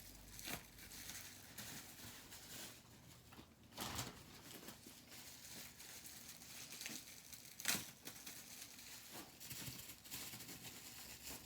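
Crinkling and rustling of packaging being handled, with a few scattered sharp knocks, the loudest about eight seconds in.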